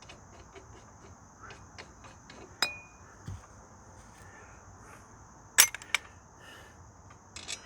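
A few sharp metal clinks, the loudest pair about five and a half seconds in, as the freshly loosened hub nut and washer are handled. Behind them, a steady high chirring of insects.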